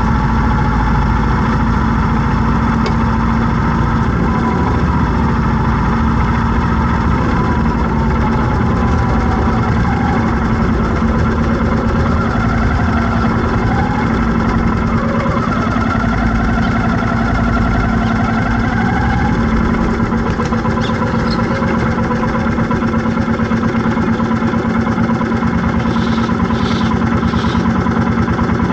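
Vehicle engine running steadily in road traffic, a continuous low hum whose pitch drifts slowly up and down. Three short high-pitched sounds come close together near the end.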